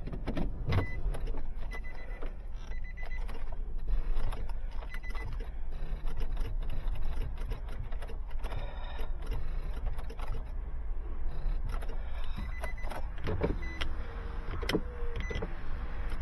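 A vehicle running with a steady low rumble, under scattered clicks and knocks and short, high beeps that come and go.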